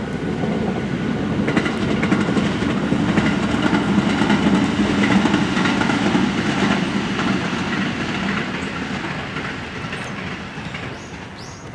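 521-series electric train passing at speed, its wheels clicking over the rail joints. It grows louder to a peak about five seconds in, then fades as the train moves away.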